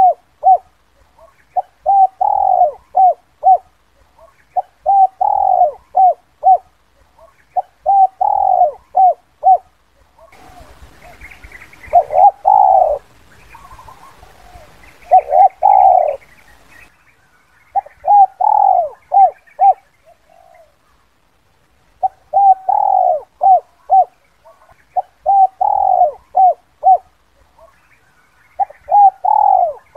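Spotted dove (Streptopelia chinensis) cooing the 'kuk 2' call: phrases of short coos around one longer, louder note, repeated about every three seconds. In the middle there is a faint hiss with a few higher chirps behind it.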